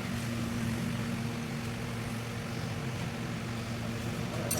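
A steady low machine hum, with a couple of light metallic clicks near the end.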